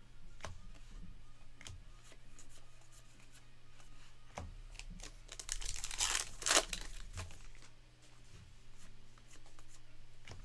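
A trading card pack's wrapper torn open and crinkled, with scattered soft clicks of cards being handled; the loudest tearing comes about six seconds in.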